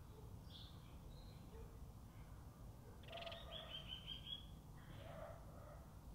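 Birds calling faintly over a low background rumble. There is a short high chirp near the start, a fast run of about six repeated high notes about three seconds in, and another call about five seconds in.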